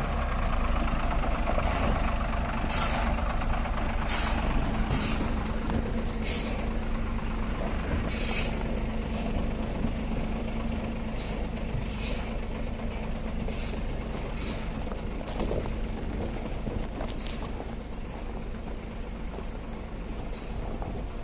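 Heavy truck's diesel engine running steadily, with a string of short, sharp air-brake hisses about every one to two seconds.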